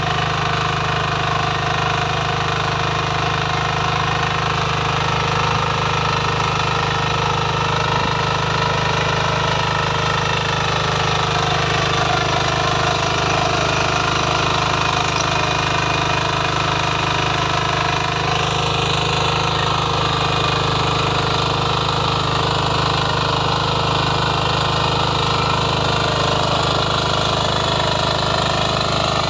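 Power weeder's engine running steadily, with a slight shift in its sound about two-thirds of the way through.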